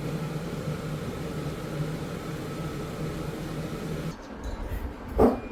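A steady mechanical hum that cuts off suddenly about four seconds in, followed by one short, loud sound near the end.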